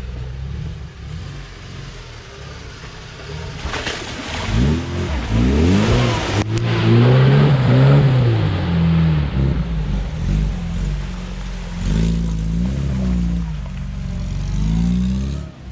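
Off-road UAZ engine revving hard, its pitch climbing and falling in repeated waves, loudest about halfway through and swelling again near the end.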